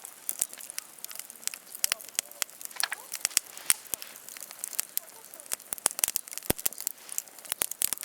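Wood campfire crackling, with sharp, irregular pops several times a second.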